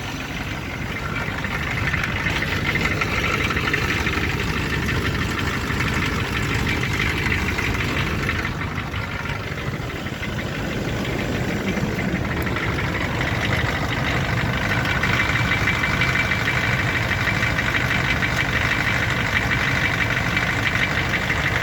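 A Rover car's engine running with a rapid knock whose cause is unknown. It gets a little louder about two seconds in and again about halfway through.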